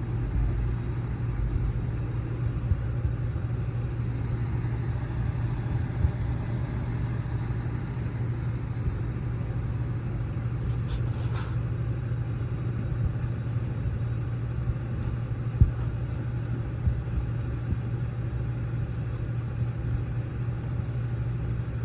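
Heavy-duty wrecker's diesel engine running steadily with a low drone while its winches pull an overturned dump truck upright. A few sharp knocks ring out, the loudest about two-thirds of the way through.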